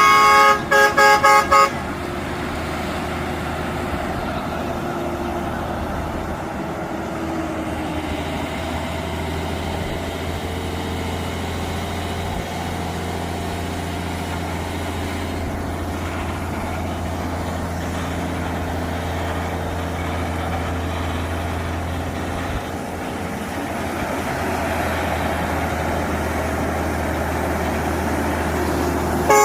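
A vehicle horn sounds about four short toots in quick succession, then a truck engine runs with a steady low drone and road noise, growing slightly louder near the end.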